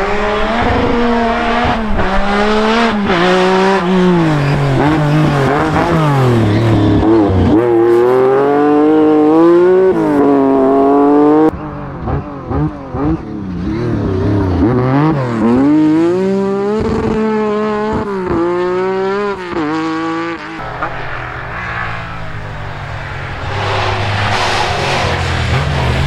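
Rally car engine revving hard, its pitch repeatedly climbing and falling with gear changes and throttle lifts, and cutting back sharply about eleven seconds in. In the last few seconds it holds a steadier low note while a rush of noise builds.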